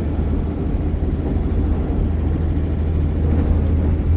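Vehicle engine running with a steady low drone, heard from inside the cab.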